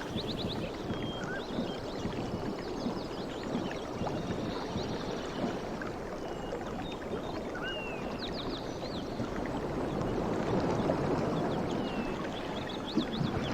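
Sea waves washing ashore: a steady rushing surf that swells a little about ten seconds in, with scattered short high chirps over it.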